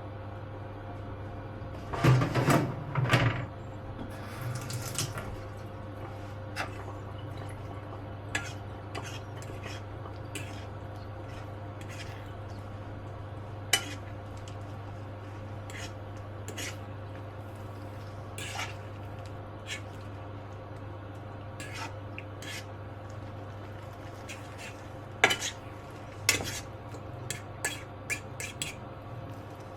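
Dishes and cutlery clinking and knocking in a kitchen: a loud clatter about two seconds in, scattered single clicks, and another run of knocks near the end, over a steady low hum.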